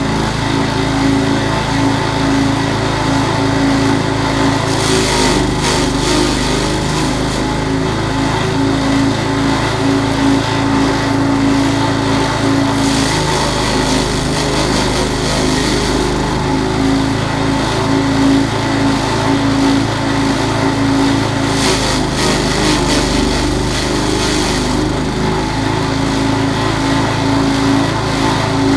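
Small engine-driven grass chopper running steadily, with stretches of louder, rougher hiss several times.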